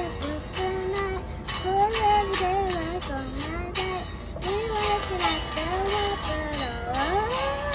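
A young girl singing a Christmas song in phrases over strummed guitar, with a bright jingling in the accompaniment.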